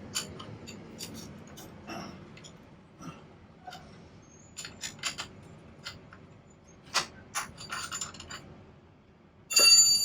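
Metal hand tools clicking and scraping during a roadside repair, with one loud ringing clank of metal near the end.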